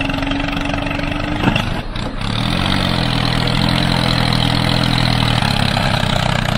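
A tractor-type engine idling steadily, with a brief dip about two seconds in before the engine note settles again.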